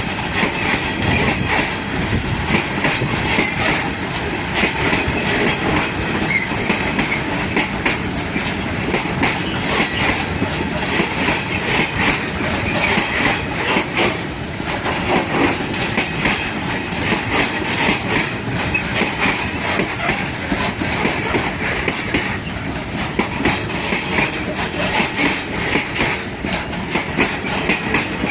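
Freight train wagons rolling past, the wheels clattering over rail joints in a dense run of clicks with a steady high metallic squeal from the wheels on the rails.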